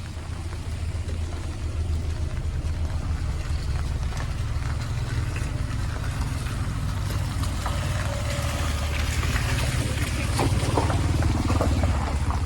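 Traffic passing on a wet street: engines running and tyres hissing on the wet road, getting louder over the first couple of seconds, with rain falling.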